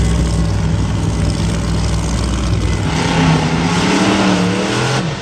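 Monster truck engine running loud and steady, then revving higher over the last couple of seconds before dropping off at the end.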